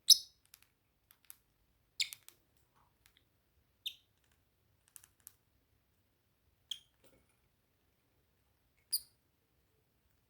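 Pet cockatiel giving five short, sharp high chirps a second or two apart, the first the loudest, with faint small clicks in between.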